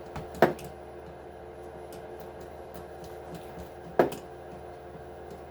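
Two sharp clicks of hand tools or small parts being handled while an Axial SMT10 RC truck is taken apart by hand, about three and a half seconds apart, over a steady background hum.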